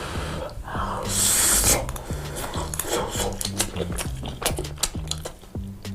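Close-miked eating of pizza: wet chewing and crisp crackling clicks, with a louder crunch about a second in. Music with a low repeating bass line runs underneath.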